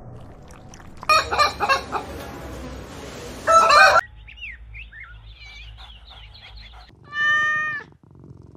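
Chickens clucking and squawking loudly for about three seconds, followed by short high chirps and then one drawn-out call near the end, in clips that cut abruptly from one to the next.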